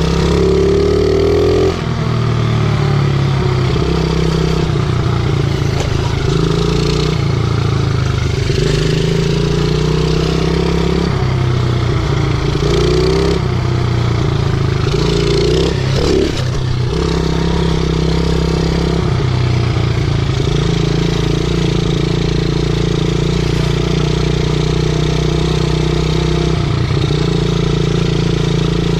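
50cc pit bike's small single-cylinder engine running under way, its revs climbing and then dropping sharply, first about two seconds in and again several more times through the ride.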